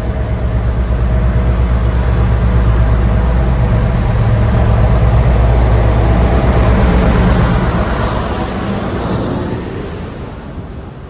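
Train passing at speed: a deep steady hum and rushing noise that build, hold loudest in the middle, then fade away over the last few seconds.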